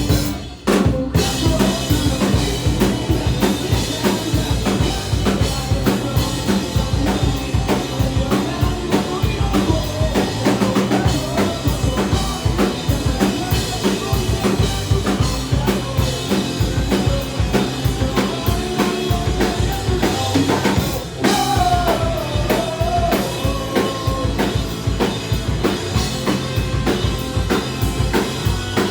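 Punk band playing live, driven by a fast, steady drum kit with bass drum and snare under the band. The music drops out briefly about half a second in and again about 21 seconds in before the band kicks back in.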